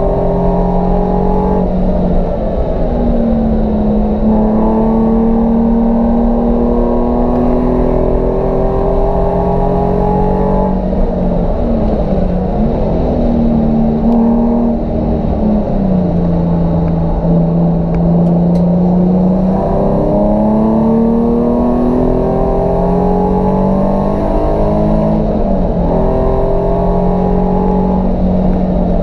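Nissan 350Z's 3.5-litre V6 engine driven hard: the note climbs in each gear and drops at each of several gear changes, holding steady for a few seconds in the middle.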